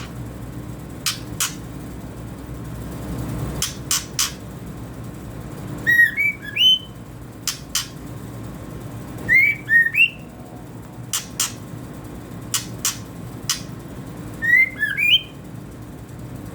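Juvenile white-rumped shama (murai batu), about two months old, giving sharp short chip calls every second or so, broken three times by brief bursts of quick whistled notes that rise and fall.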